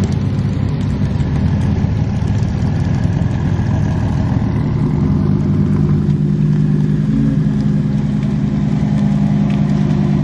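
An engine running steadily, its pitch rising slightly and holding about halfway through.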